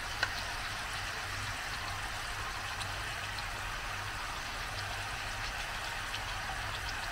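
Chicken sizzling and bubbling in oil and pomegranate sauce in a pan: a steady crackling hiss with scattered small pops, over a low hum. One sharp click just after the start.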